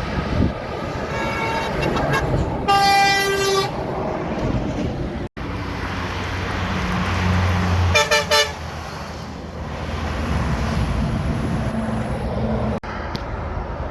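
Heavy trucks passing on a highway, sounding their air horns: one long blast about three seconds in and a few quick toots about eight seconds in, over steady diesel engine and tyre noise.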